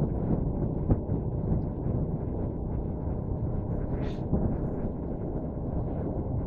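Wind buffeting the microphone during a bike ride, a steady low rumble with a sharp tick about a second in and a brief hiss about four seconds in.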